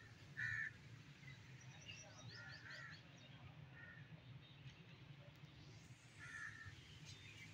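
Faint bird calls: about five short calls spread through the few seconds, the first the loudest, over a steady low hum.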